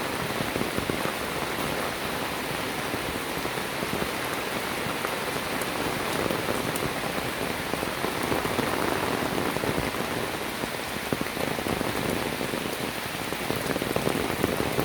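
Steady rain falling and pattering on surfaces, a dense even hiss with many small drop ticks.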